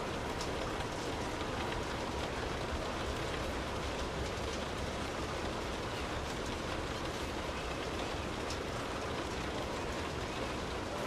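Steady rain falling, with scattered drops ticking and a low rumble underneath.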